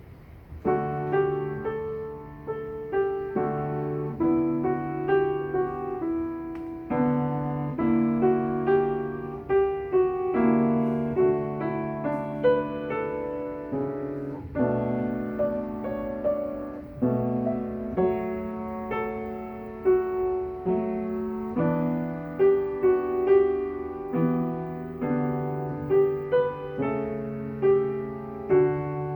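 Solo piano playing a gentle piece of melody over chords, starting about a second in.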